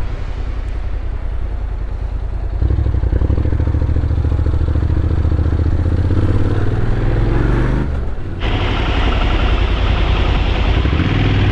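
Motorcycle engine running under way. The revs climb, dip briefly about eight seconds in, then pick up again as a louder rush of wind noise comes in.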